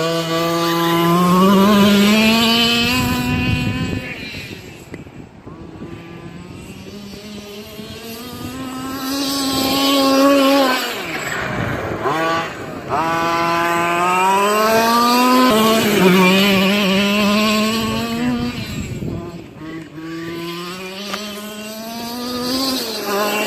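Gasoline engine of a 1/5-scale RC monster truck revving up and down as the truck is driven around. Its pitch climbs under throttle and drops away several times, and it fades to quieter for a few seconds when the truck is farther off.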